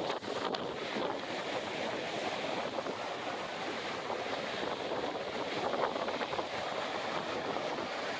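Storm surf from Hurricane Helene breaking on the beach, a steady rushing wash, mixed with strong wind buffeting the microphone.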